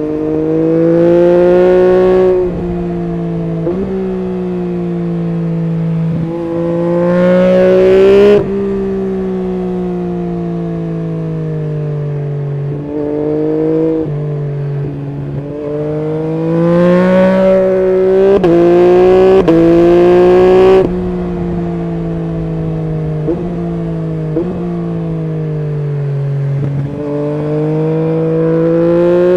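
Yamaha MT-09 SP's three-cylinder engine through an Akrapovic full exhaust system, ridden hard: several pulls where the engine note climbs and gets louder, each cut off by a sudden drop in pitch as the throttle closes. Between the pulls it runs lower, with the pitch stepping at gear changes.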